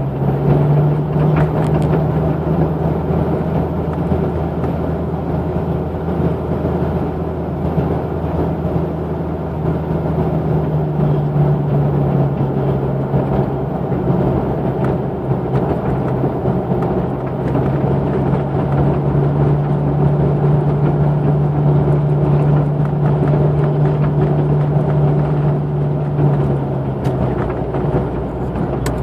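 Exhaust of a 1992 Jeep Cherokee's 4.0 straight-six, run through a 2.5-inch pipe and a Thrush Turbo muffler, running steadily with a low drone.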